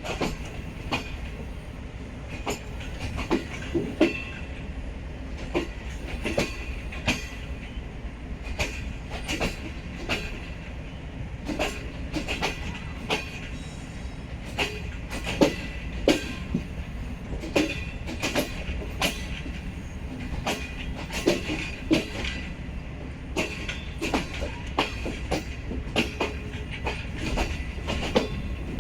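Green Line Express passenger coaches rolling past, their wheels clacking irregularly over the rail joints above a steady low rumble, with a faint high squeal from the wheels.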